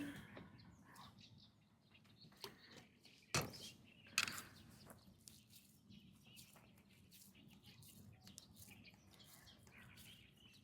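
Quiet outdoor ambience with faint, scattered bird chirps and a few brief soft knocks, the loudest about three and a half seconds in and another just after four seconds.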